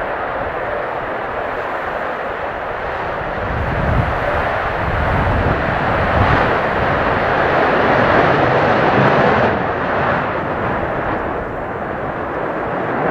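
Jet aircraft engine noise, a steady rush that swells over several seconds and then eases, with strong gusty wind buffeting the microphone underneath.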